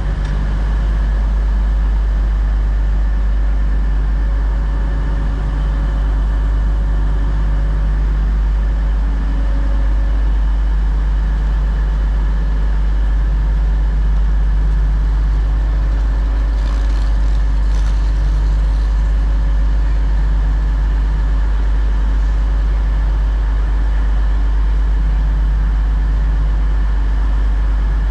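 Class 222 Meridian diesel multiple unit idling at the platform: a steady engine drone with several held tones over a deep rumble, with a few faint high clicks about two-thirds of the way in.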